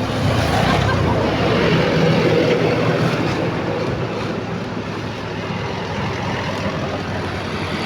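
Heavy truck engine running steadily under a haze of noise.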